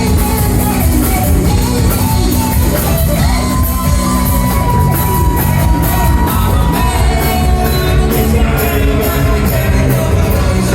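Loud rock band music with drums and cymbals. A single high note is held for about three and a half seconds midway.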